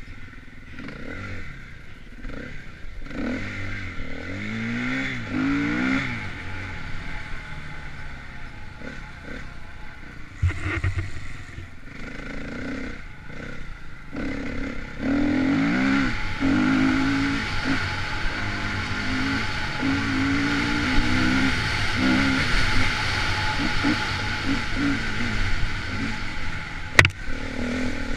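Enduro dirt bike engine revving up and down over and over as the throttle is worked on a trail, louder from about halfway through, with rattling and a couple of sharp knocks near the end.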